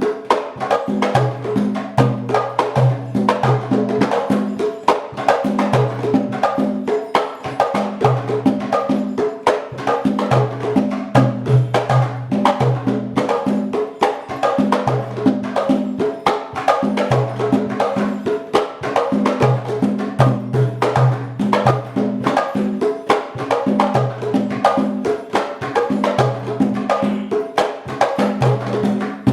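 Afro-Cuban Congo (palo) percussion ensemble playing without voices. Drums sound two low pitches in a repeating pattern under fast, steady clicking of wooden sticks.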